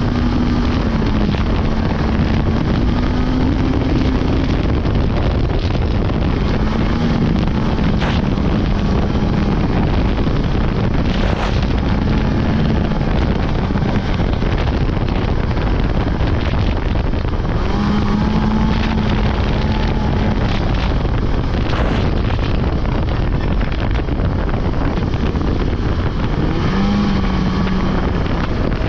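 Polaris 600 two-stroke snowmobile running under way, its engine note rising and falling as the throttle changes, with wind buffeting the microphone.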